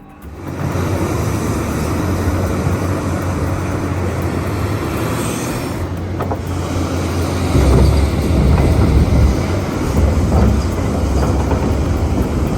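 Heavy diesel machinery running with a deep, steady rumble, growing louder about seven and a half seconds in.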